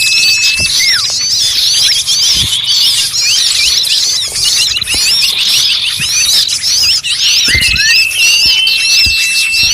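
Bird-lure recording of many small birds calling at once in a noisy, agitated chorus of rapid chirps, trills and down-slurred notes. A steady high whistle is held briefly near the start and again for a couple of seconds near the end.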